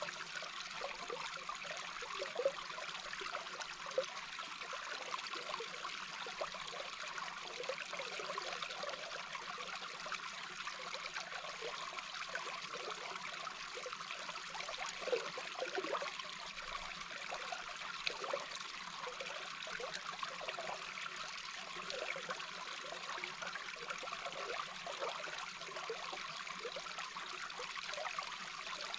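Small babbling brook heard underwater: a steady rush of flowing water with a constant scatter of short, low bubbling pops.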